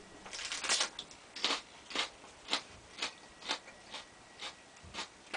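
A crisp bite into a raw yellow Monkey Face chilli pod, then steady chewing of the pod's flesh at about two chews a second.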